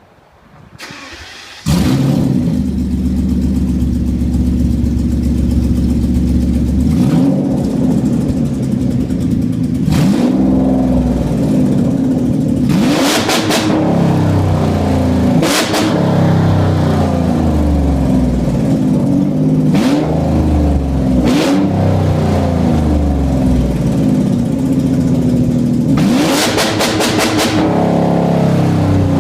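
Straight-piped M120 V12 of a 1997 Mercedes-Benz S600, running on headers alone with no catalytic converters. It starts about two seconds in and idles loud, then is revved up and let fall back several times.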